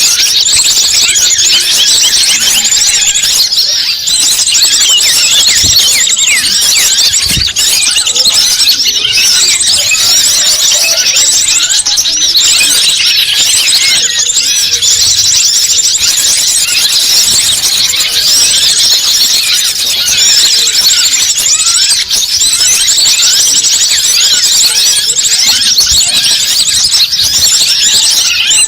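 Dense, continuous chorus of many small birds chirping and twittering over one another, high-pitched and unbroken: a bird-lure (pikat) recording played to draw wild birds in.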